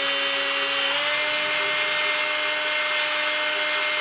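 Electric drill spinning a brake cylinder hone inside a 1937 Chrysler Royal's brake master cylinder bore, the stones rubbing the cylinder wall. It runs steadily, its pitch rising slightly about a second in.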